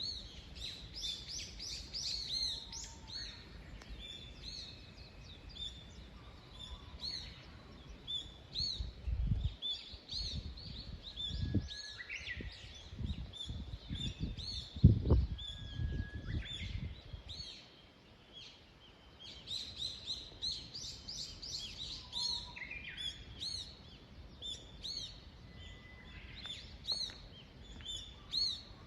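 Many small songbirds chirping and calling together in a dawn chorus, with quick repeated high chirps and a few longer whistled notes. Low rumbles and thumps come through in the middle, the loudest a sharp thump about halfway.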